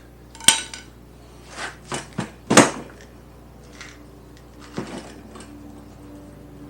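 Metal knocking and scraping as a motorcycle engine is worked into its frame: a sharp clank with a brief ring about half a second in, a cluster of knocks, the loudest about two and a half seconds in, and one more about five seconds in.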